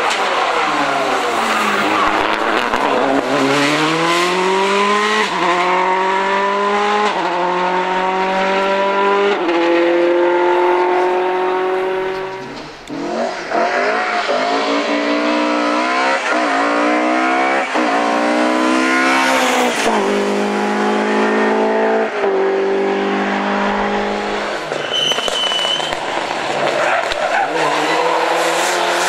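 Rally car engine accelerating hard through the gears, its pitch climbing and then dropping at each upshift. About halfway the sound dips briefly, then another run of quick upshifts follows.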